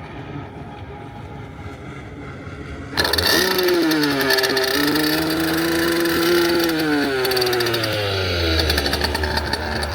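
Motorized surfboard engine running on the water, its pitch rising and falling with the throttle. About three seconds in it becomes suddenly much louder, and near the end it settles into a low steady drone.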